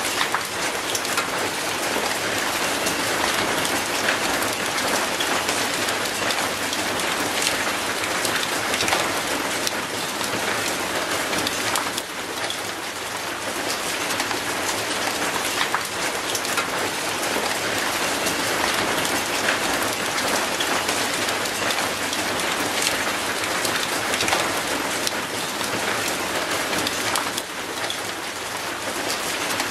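Steady rain falling on wet concrete and an old rusty metal gate, a constant patter with many separate sharp drop hits.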